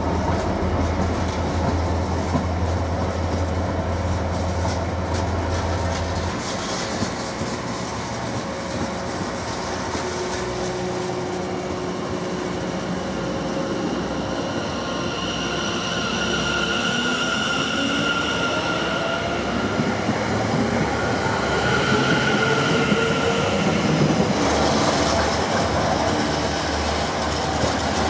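Container freight train wagons rumbling and clattering over the rail joints as they pass. About halfway through, a London Overground class 710 electric multiple unit runs past on the near track, adding a steady high whine and then a rising whine.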